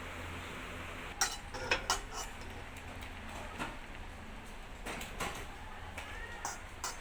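A scattering of short, light clinks and knocks, about eight over several seconds, like small hard objects being handled, over a steady low hum.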